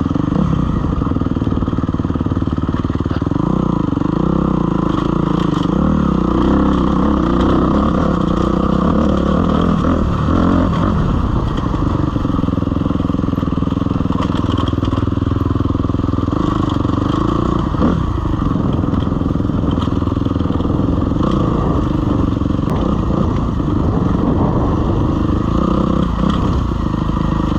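Suzuki RM-Z250 single-cylinder four-stroke dirt bike engine running while riding a steep, loose, rocky descent, its pitch rising and falling with the throttle. Scattered knocks and clatter from rocks under the tyres and the bike hitting them.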